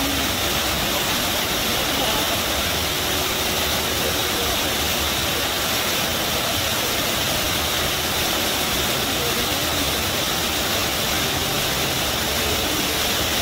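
River water rushing and gushing in a steady, unbroken roar of white noise.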